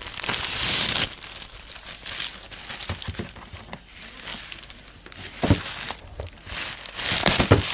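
Package wrapping being torn open and crumpled by hand, in uneven rustling bursts that are loudest in the first second and again near the end, with a few sharp knocks between them.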